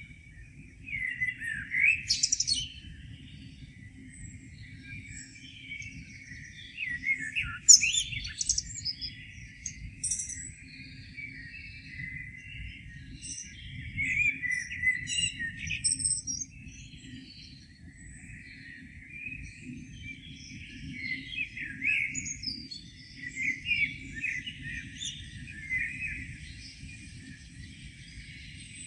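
Several songbirds singing and chirping in a morning chorus, short phrases coming in clusters every few seconds, over a faint steady low rumble.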